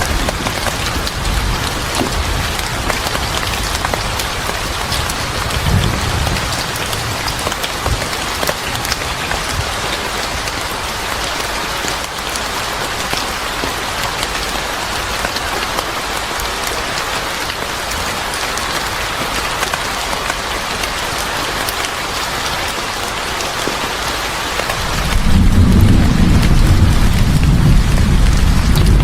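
Steady heavy rain falling, an even hiss with scattered drops. About 25 seconds in a low thunder rumble rolls in and grows loud.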